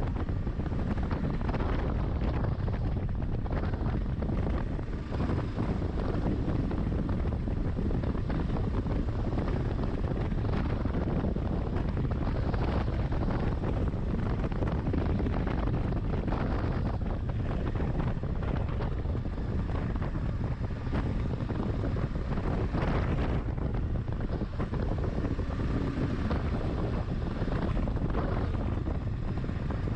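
Wind buffeting a helmet-mounted microphone over a Kawasaki KLR 650's single-cylinder engine running steadily on the move, with many short knocks and rattles throughout.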